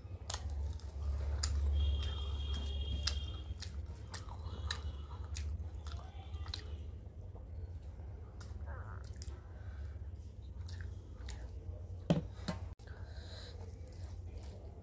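Close-miked chewing of a mouthful of rice, dal and fried fish, with many small wet mouth clicks and a brief louder click near the end.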